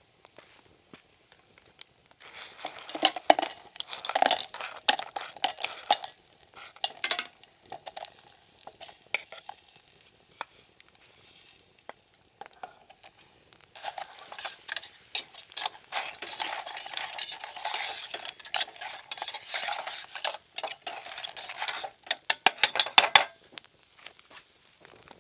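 A metal utensil stirring and scraping against cookware in two spells, ending in a quick run of sharp clinks.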